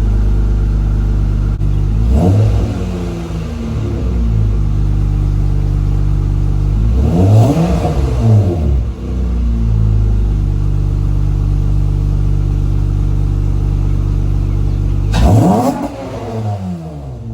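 Acura TL V6 through an Endless RPM cat-back exhaust, idling and blipped three times: a short rev about two seconds in, a bigger one in the middle and another near the end, each dropping back to idle.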